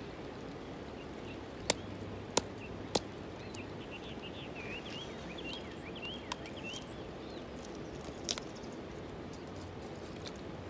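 Steady outdoor wash of rain and river water, with a few sharp clicks from handling a fish with a knife on the pebbles. A small bird chirps a quick run of notes from about four to seven seconds in.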